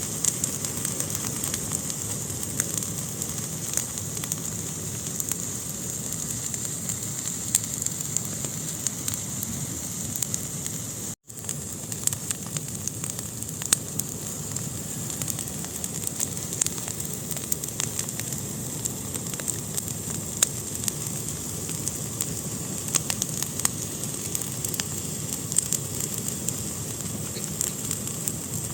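Fire burning in a fireplace: a steady hiss with frequent sharp crackles and pops. The sound cuts out for a split second about eleven seconds in.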